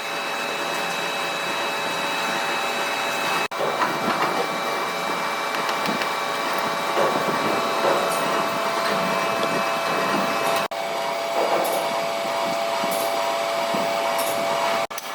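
A machine running with a steady hum and whine, broken three times by brief dropouts where the footage is cut, with faint scraping and clinks over it.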